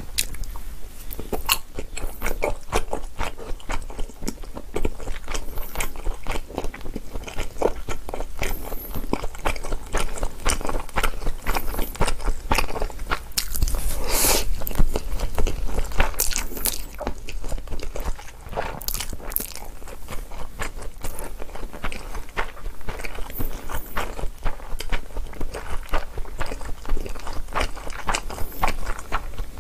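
Continuous chewing and smacking of Chapagetti instant black-bean noodles, a dense run of short wet mouth clicks, with a louder slurp of noodles about halfway through.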